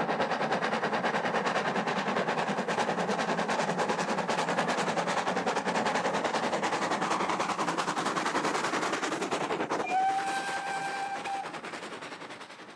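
Steam locomotive working, with rapid, even exhaust beats. About ten seconds in, its whistle sounds once for about a second and a half, and then the sound fades away.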